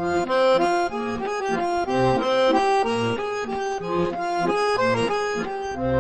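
Accordion music with a bouncy bass beat, a lively tune of short notes.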